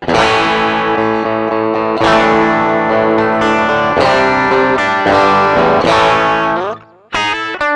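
A 1980 Greco SE500 Spacey Sound Stratocaster-type electric guitar, played through an amplifier: four full chords strummed about two seconds apart, each left to ring. The last chord is cut off about seven seconds in, and quick single picked notes follow.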